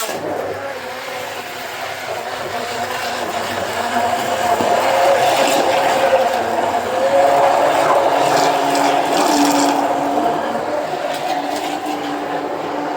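Electric mixer-grinder motor running steadily, blending frozen bananas and sugar into a shake; the hum wavers a little in pitch as the load in the jar shifts.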